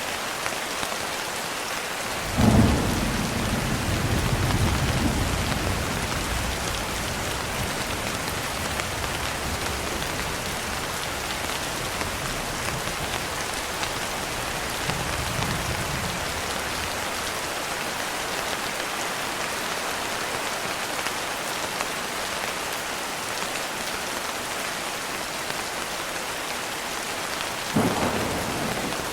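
Steady heavy rain, with a sharp thunderclap about two and a half seconds in that rumbles away over a few seconds, a fainter rumble midway, and another thunderclap near the end.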